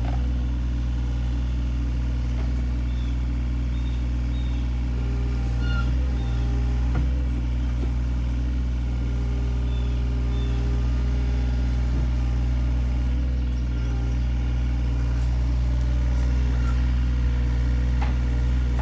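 An engine running steadily at an even speed, a deep low drone with no change in pitch.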